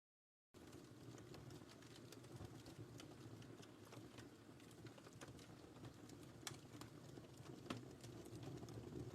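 Wood fire crackling softly, with a low steady rumble and scattered sharp pops; the sound cuts out completely for about half a second at the start.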